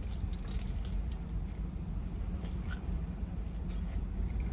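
Close-up chewing of a crispy lemon pepper chicken wing dipped in ranch: many small crunches and wet mouth clicks over a steady low rumble.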